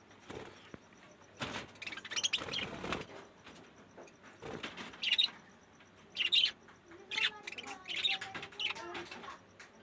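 Budgerigars chirping in short, high bursts, with a stretch of rustling about a second or two in.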